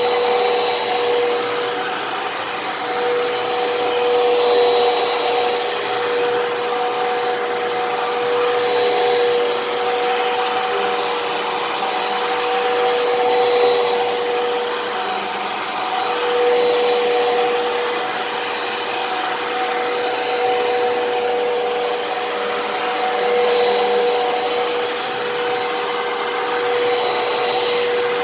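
Fantom Fury vacuum cleaner running steadily, its motor whine holding one pitch while the loudness rises and falls gently every few seconds.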